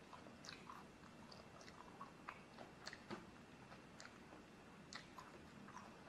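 Faint eating sounds: a person chewing food, giving short crisp clicks and little crunches at irregular intervals.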